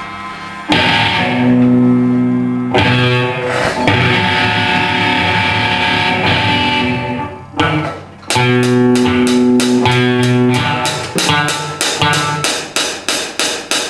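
Guitar music: held chords ringing out, a brief drop about halfway through, then quick repeated strums over the last few seconds.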